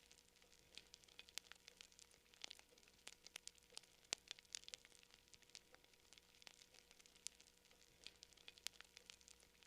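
Quiet campfire crackling: irregular sharp pops and snaps of burning wood over a faint hiss, the loudest snap about four seconds in.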